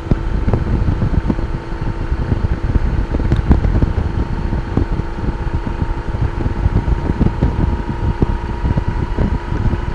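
Wind buffeting a helmet-mounted microphone on a moving Honda Gold Wing motorcycle: a heavy, fluttering rumble, with the bike's steady drone running beneath.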